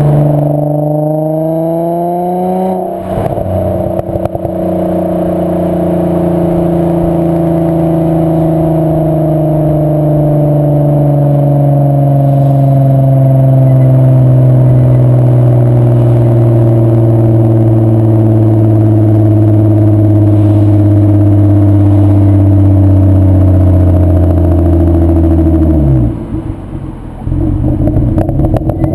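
VW Bora mk4's 2.8-litre VR6 24V engine running through a Milltek non-resonated exhaust: the revs climb for about three seconds and drop at a gear change, then hold and slowly fall for some twenty seconds. Near the end the revs drop sharply and the exhaust runs rough and uneven.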